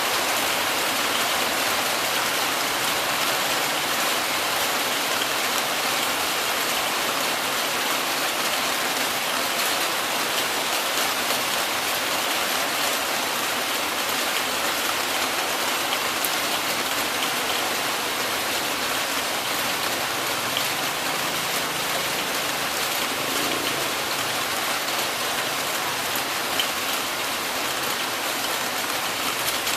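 Heavy rain falling steadily, a dense even hiss of drops on surfaces, with one short sharp tap near the end.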